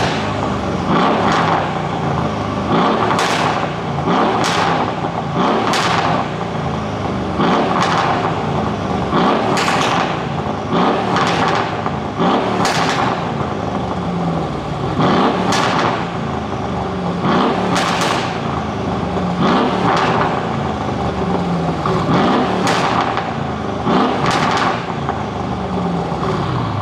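Mercedes-AMG GLE63 S Coupe's twin-turbo V8 revved in quick throttle blips again and again, about one every second to second and a half, each falling back with sharp pops and crackles from the exhaust: an overrun pop-and-crackle tune.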